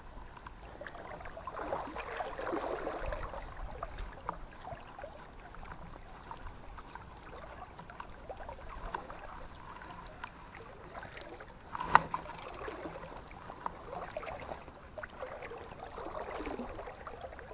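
River water flowing and lapping, with uneven swells of splashing. A single sharp knock comes near the middle.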